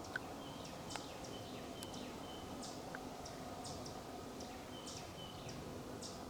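Small birds chirping: short, high calls repeated irregularly, with a few thin whistled notes, over a steady outdoor hiss. A sharp click sounds near the start and another about a second in.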